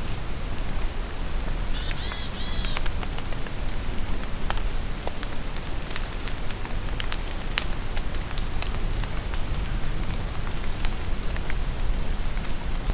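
Steady rain falling in a forest, with scattered drops ticking sharply. A songbird gives one short burst of high, arched notes about two seconds in, and a few faint high chirps come and go.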